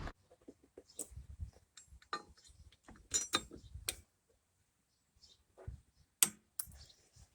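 Scattered small metallic clicks and clinks of bolts, nuts and tools being handled while a tilt-actuator bracket is mounted, with a sharper knock about six seconds in.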